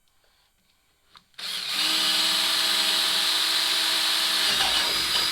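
A power drill starts about a second and a half in and runs steadily at full speed, boring a mounting hole for a trim piece. Its tone shifts slightly near the end.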